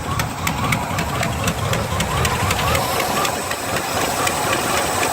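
Box Chevy Caprice engine idling steadily, with a sharp ticking about four times a second over the drone.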